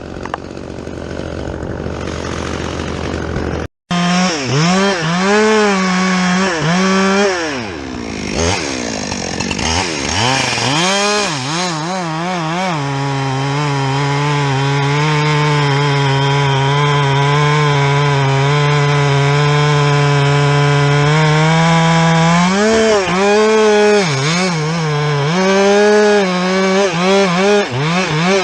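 Two-stroke chainsaw cutting fir wood with a dull chain, starting about four seconds in: the engine revs up and down, holds at full throttle through a long steady cut in the middle, then revs and drops off again near the end.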